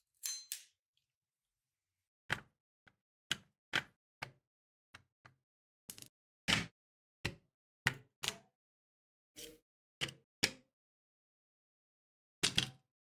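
Small hard parts knocking and clicking against each other or a work surface: about fifteen short, sharp knocks at irregular intervals, with dead silence between them and a louder double knock near the end.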